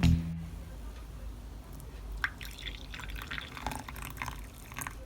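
Rain dripping: scattered, irregular drops over a low steady hiss. Background music fades out at the very start.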